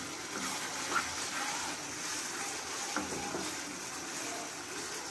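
Onion-tomato masala sizzling in hot oil in a kadhai as it is stirred with a spatula, with a couple of spatula knocks against the pan. The masala is being fried down until the oil separates.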